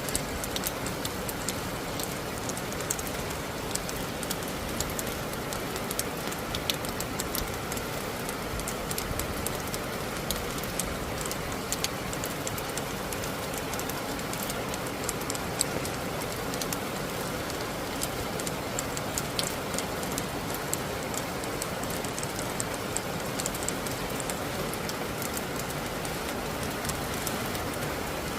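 Steady rain falling, with many small drops ticking and pattering on nearby surfaces.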